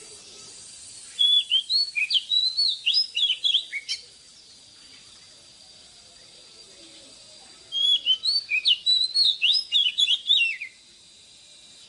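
Oriental magpie-robin singing: two phrases of quick, varied whistled notes, each lasting about three seconds, the first about a second in and the second just past the middle.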